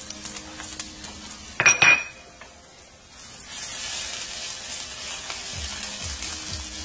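Onions, garlic and ginger sizzling in avocado oil in an enameled pan and being stirred with a silicone spatula. A brief loud clatter with a ringing tone comes about two seconds in; after a short lull the sizzling grows steadier and louder.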